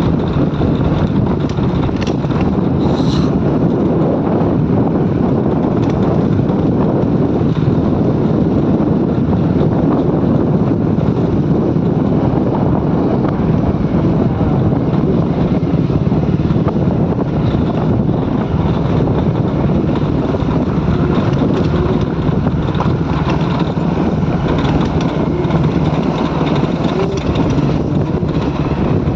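Motorcycle engine running steadily while riding slowly on a rough road, with wind buffeting the microphone.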